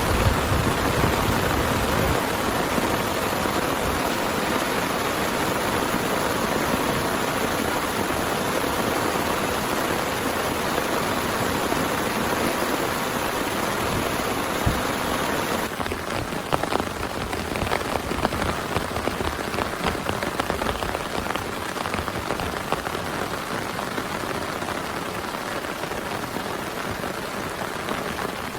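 Heavy rain falling steadily as a dense, even hiss. About halfway through the sound changes abruptly and turns a little quieter, with separate drops now ticking on a surface.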